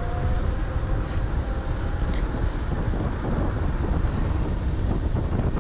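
Wind buffeting the microphone of a camera riding on a moving electric bike, a steady low rumble with no clear events.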